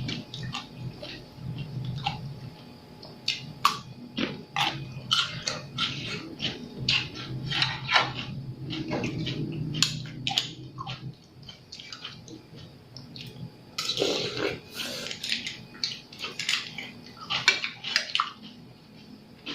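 Close-miked eating sounds: wet chewing, lip smacking and slurping of a seafood papaya salad with squid and cockles, a rapid scatter of sharp wet clicks with a quieter pause about two-thirds of the way through.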